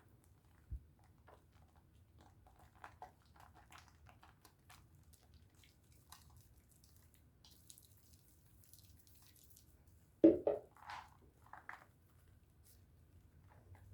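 Wet Dove bar soap being lathered: faint scattered crackles and squishes of foam, with one louder thump about ten seconds in.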